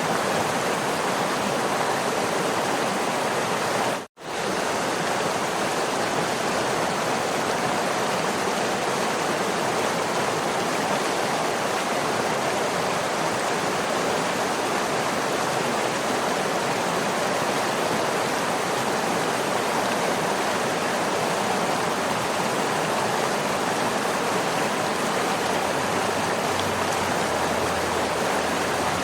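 Waterfall rushing in a steady, even wash of falling water. About four seconds in it cuts out for a split second and comes straight back.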